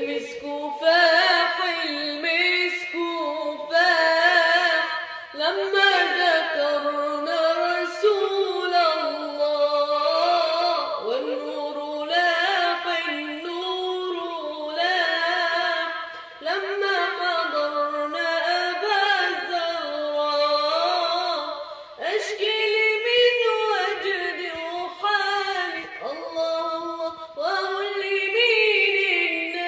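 A single high voice singing an unaccompanied Arabic devotional song in praise of the Prophet. It sings in long, ornamented phrases of about five seconds, with brief breaks between them.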